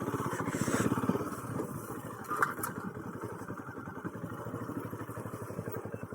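Motorcycle engine running at low speed as the bike is ridden slowly over a rough, unpaved track, a little louder in the first second. A brief knock sounds about two and a half seconds in.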